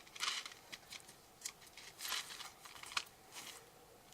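Small packaging being handled and opened by hand: short bursts of crinkling and rustling with a few sharp clicks.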